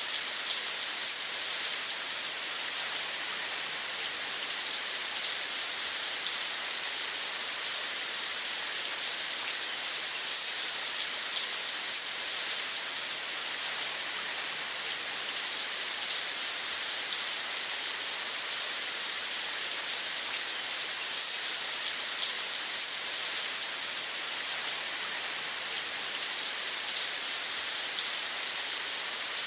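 Steady rain falling, a dense even patter of drops with no change in intensity.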